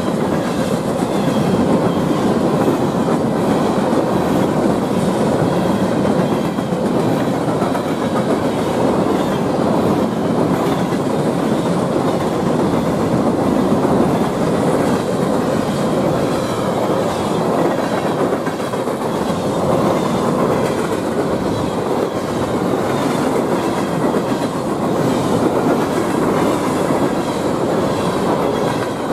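Empty steel coke hopper cars of a freight train rolling past close by: a steady, loud rumble and rattle with the clickety-clack of wheels over the rail joints.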